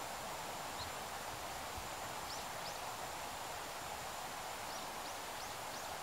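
Steady outdoor background hiss with faint, high, thin bird chirps: one about a second in, two a couple of seconds in, and four in quick succession near the end.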